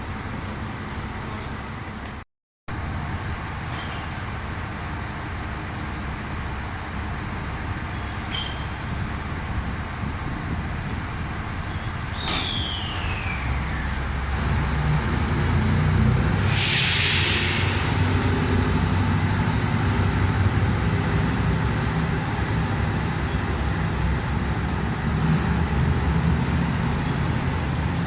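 Train running, with a low rumble that builds and grows louder about halfway through. A short falling whistle-like tone comes before a brief hiss of air.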